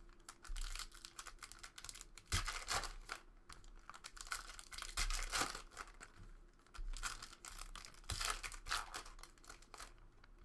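Foil trading-card pack wrappers being torn open and crinkled by hand, in several short rustling bursts.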